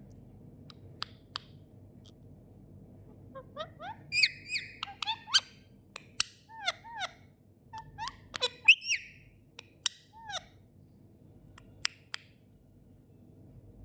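A pet parrot making a run of short chirps, whistles and clicks, many sliding up and then down in pitch. The calls are busiest in the middle several seconds, with a few sharp isolated clicks before and after.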